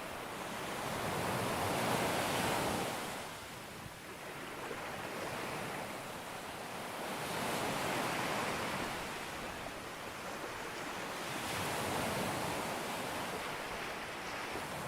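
Sea waves breaking and washing up a beach: a steady rush of surf that swells three times, each surge rising and falling over a few seconds.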